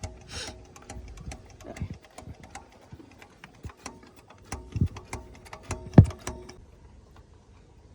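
Hand priming pump on a Mitsubishi 4D32 diesel's fuel injection pump being worked by hand, a run of quick irregular clicks and knocks with a few heavier thumps, stopping about six and a half seconds in. It is bleeding air from the fuel system after the injection pump was fitted, before fuel is heard returning.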